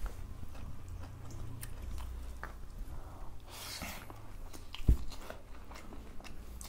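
Close-miked eating: chewing and small wet clicks as people eat rice and curry by hand from steel plates. A single dull thump a little before the five-second mark is the loudest sound.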